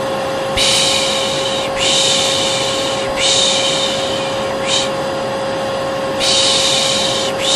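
A hair dryer runs steadily with a constant hum, while a voice shushes "pış pış" over it in repeated long hisses of about a second each. This is white noise used to soothe a colicky baby.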